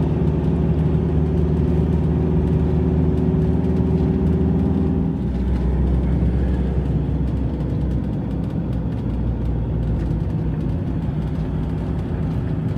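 Camper van's engine and road noise heard from inside the cab while driving, a steady hum whose engine note changes about five seconds in.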